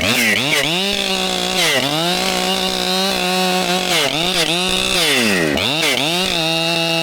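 Two-stroke chainsaw running at high revs, its pitch dropping off and climbing back up several times.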